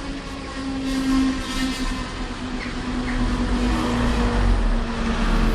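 Two coupled Class 220 Voyager diesel multiple units running over a level crossing: a steady drone with a low rumble that grows in the second half.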